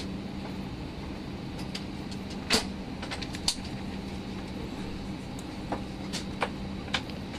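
Airbus A319 cabin noise at the gate: a steady ventilation hum with a constant low tone, and scattered sharp clicks and knocks, the loudest about two and a half seconds in.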